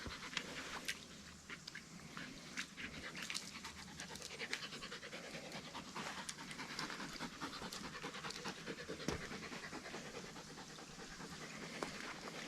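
A collie panting steadily, with small scattered clicks.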